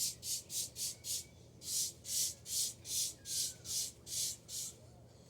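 Scrubbing or wiping a surface with quick back-and-forth strokes, about three a second, with a short pause about a second in. It stops shortly before the end.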